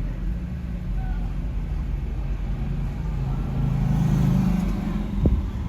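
Car traffic on a busy street: a steady low engine drone, with one vehicle's engine note getting louder for about a second around the middle, then a sharp knock near the end.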